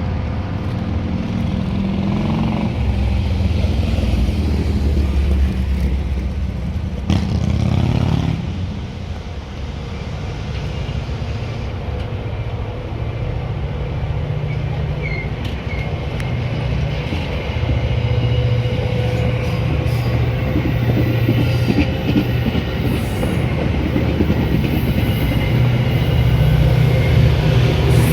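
Metra commuter train running on the rails, a steady low rumble with a sharp knock about seven seconds in, growing louder near the end.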